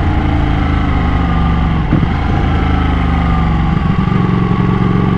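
Ducati motorcycle engine heard from the rider's seat, its note falling as the bike slows. There is a short break about two seconds in, and the engine settles into a steady lower note near the end.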